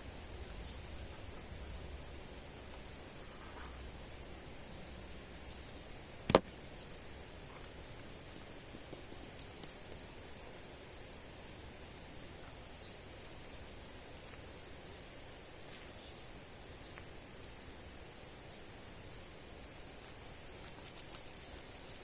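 Small birds giving many short, high-pitched chirps at irregular intervals over a faint steady background, with one sharp click about six seconds in.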